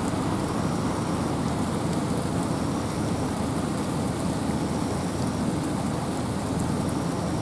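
Steady wind and rain in a forest: an even, low rushing hiss with faint scattered ticks of drops.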